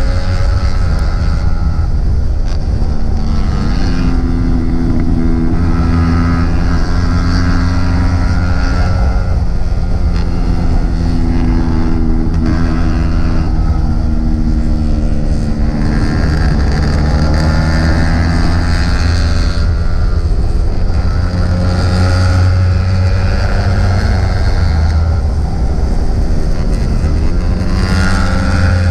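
Yamaha R15 single-cylinder sport bike engine running hard on a downhill run, its note rising and dropping again and again as the rider works the throttle and gears, over heavy wind rush on the microphone.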